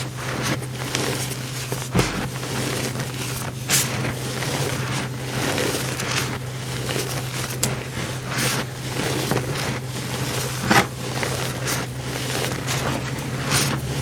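Pressed powder blocks being crushed and crumbled by hand, a run of dense crunching and crackling with a few sharper snaps, over a steady low hum.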